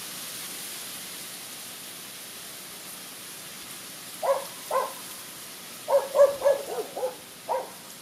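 Short bird calls: two single notes, then a quick run of about five, then one more near the end, over a steady hiss.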